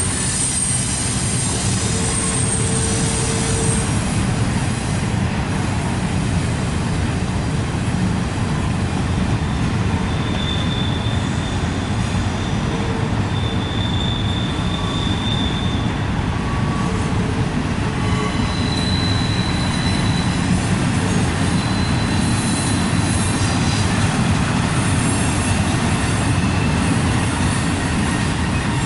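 Freight train's intermodal cars rolling past in a steady rumble and clatter, with high-pitched wheel flange squeal coming and going several times as the wheels grind through the tight curve.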